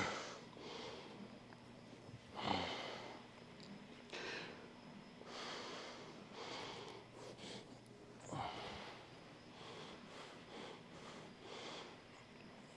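A man breathing hard from weightlifting exertion, with sharp, noisy exhales every one to two seconds.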